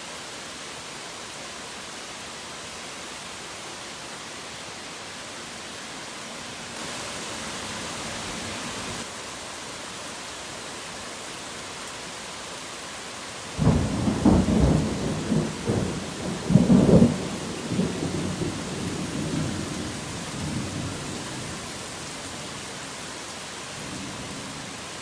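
Steady heavy rain hiss. A little past halfway a thunderclap breaks in suddenly, then rumbles and crackles for several seconds before fading back into the rain.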